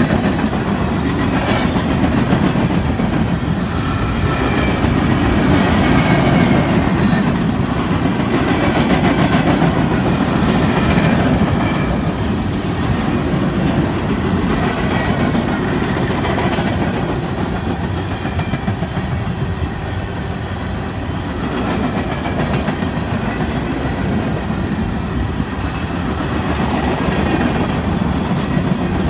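Coal train's hopper cars rolling past close by: steel wheels running on the rails in a steady, continuous rumble.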